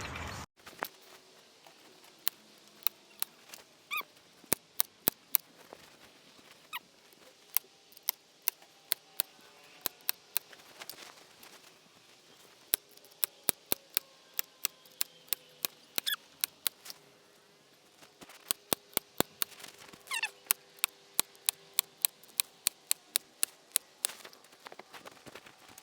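Staple gun firing staples through a new fabric dust cover into the couch's wooden frame: dozens of sharp shots in quick runs, with a few short squeaks in between.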